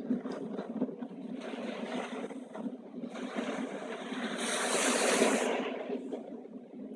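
Ocean waves washing in a steady rush that swells to a peak about five seconds in, then eases off.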